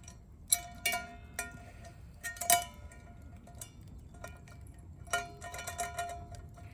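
Sharp metallic clinks, irregularly spaced, each ringing briefly at the same pitch, like metal cookware or utensils knocking together. The loudest comes about two and a half seconds in.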